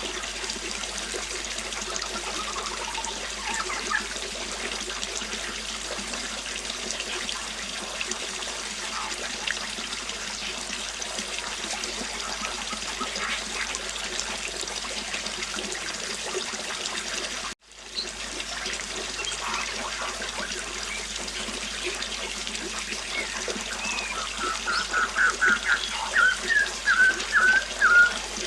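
River water flowing steadily, with birds chirping now and then. The water sound cuts out for a moment about two-thirds through and comes straight back. Near the end a bird sings a quick run of loud notes for a few seconds.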